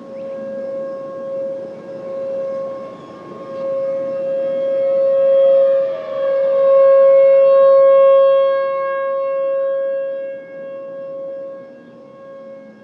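Several outdoor warning sirens sounding a steady full-alert tone from a distance, the level slowly swelling and fading as the rotating siren heads sweep past, loudest a little past the middle. Around the middle a second siren's pitch glides down under the main tone.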